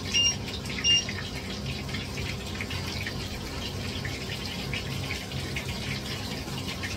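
Chicken breast fillets sizzling in a frying pan, a steady crackling hiss. Near the start, the hob's touch controls give two short electronic beeps about a second apart.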